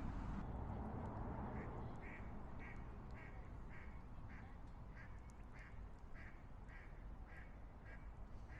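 A bird calling over and over in evenly spaced short calls, about two a second, over a low rumble that fades during the first two seconds.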